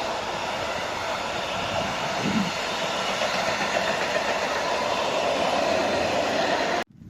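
SM42 diesel shunting locomotive running past with its train: a steady, loud mix of engine and wheel noise that cuts off suddenly near the end.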